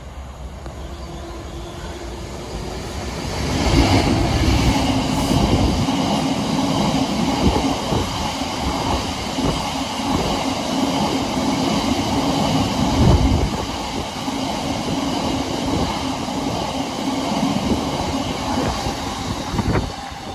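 A train passing close by: its noise swells about three to four seconds in, runs on steadily with a low drone and many short knocks from the wheels, then drops away suddenly near the end.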